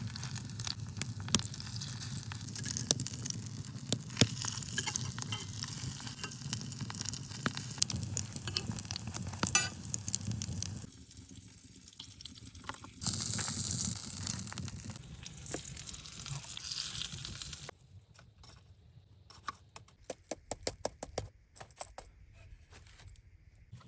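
Food sizzling and frying, with crackling pops, for the first half; a louder hiss follows, and near the end a run of quick taps or knocks.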